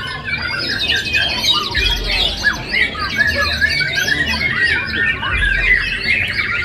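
Many caged competition songbirds singing at once: a dense, unbroken mix of overlapping chirps, rapid trills and whistles.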